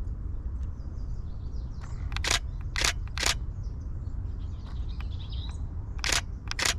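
A camera shutter fires five times: three shots about two seconds in, then two more near the end. Faint small-bird chirps and a steady low outdoor rumble sit underneath.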